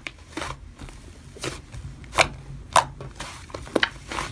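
Slime being pressed and played with by hand, giving a handful of sharp clicking pops spaced irregularly about a second apart.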